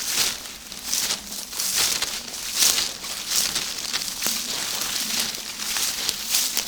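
Footsteps through forest undergrowth: repeated rustling and crackling of plants and twigs, about one step a second, with a sharp snap about four seconds in.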